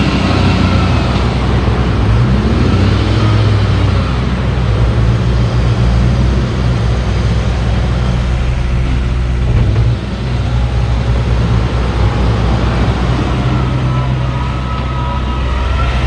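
Heavy-equipment diesel engine running loudly and steadily, with a brief drop in level about ten seconds in and a faint higher whine near the start and end.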